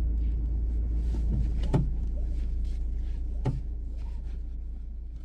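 Steady low rumble of a vehicle on the move, with two sharp knocks a couple of seconds apart; the sound fades away near the end.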